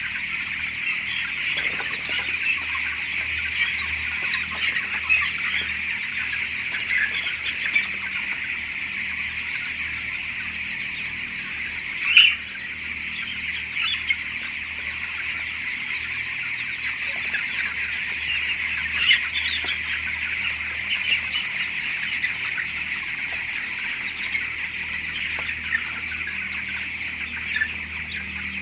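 A large flock of 19-day-old chicks peeping continuously in a dense chorus, with single louder calls standing out, the loudest about twelve seconds in. A low steady hum runs underneath.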